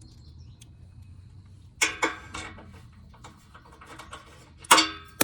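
Two sharp metallic clanks with a short ring, about two seconds in and again near the end, as metal parts and fasteners are handled while refitting a car's bumper reinforcement. A low hum sits underneath.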